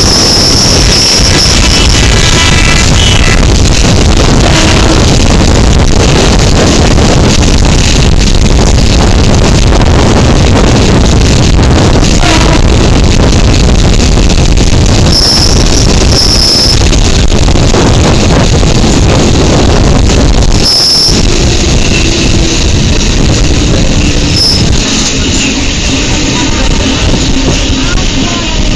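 Loud, steady rushing noise of a moving local train, with wind buffeting the microphone, broken by a few short high-pitched squeals.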